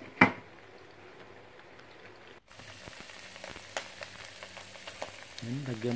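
A pan lid knocks once as it is lifted off a wok, then beef cubes sizzle and crackle as they fry in hot oil, with a brief break near the middle.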